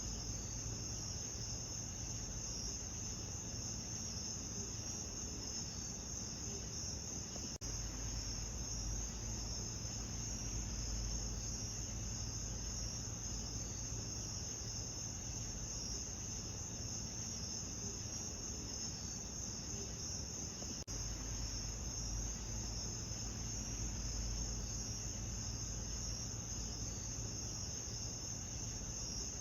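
A steady night chorus of crickets trilling in a high band, over a low steady rumble. There are two very brief dropouts, about a third of the way in and again about two thirds of the way in.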